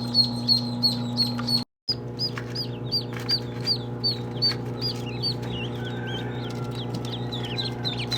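Ducklings peeping repeatedly, high thin peeps coming a few times a second, over a steady low hum. The sound cuts out completely for a moment just under two seconds in.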